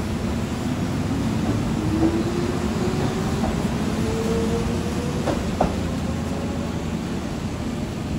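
Keihan 8000 series electric train pulling out of a station. Its traction motors whine, rising steadily in pitch as it gathers speed, over a steady running rumble. Two sharp clicks come a little past halfway.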